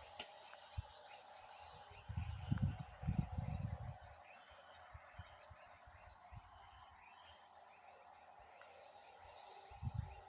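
A steady night chorus of insects chirring, typical of crickets, with a fine pulsing texture. Low muffled rumbles break in from about two to four seconds in and again near the end.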